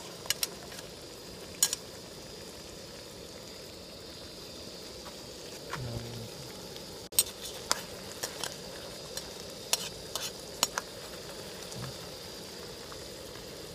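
Thick crab curry sizzling in a metal kadai: a steady frying hiss with scattered sharp clicks and pops, more of them in the second half.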